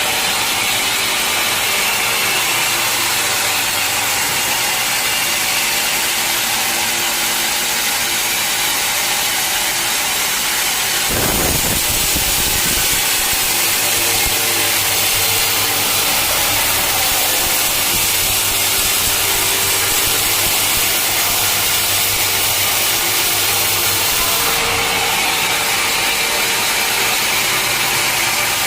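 Sawmill blade cutting through an old teak log, a steady, loud sawing noise. About eleven seconds in there is a brief low rumble, after which a low engine hum runs under the cut.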